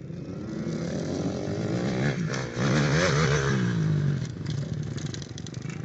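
Youth motocross bike engine revving as it rides past close by, its pitch rising and falling with the throttle. It is loudest about halfway through, then fades.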